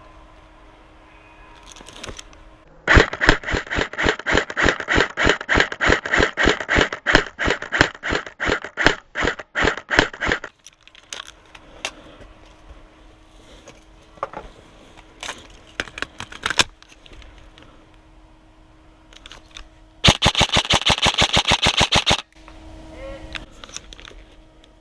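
Airsoft gun firing: a steady run of quick single shots, about four a second, lasting some seven seconds, then after a pause a faster burst of about two seconds near the end.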